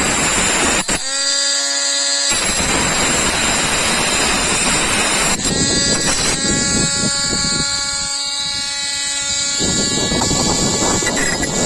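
Mini grinder's motor whining at steady speed, broken by stretches of harsh grinding noise as the disc cuts into a wood screw: grinding from the start, again from about two seconds in to about six, and near the end.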